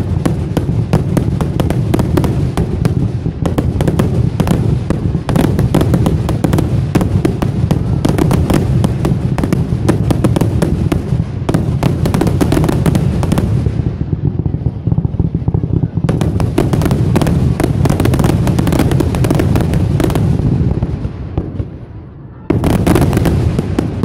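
Aerial fireworks barrage: a dense, rapid string of shell bursts and crackling bangs. It eases briefly midway, dies down near the end, then a sudden fresh volley of bursts starts just before the end.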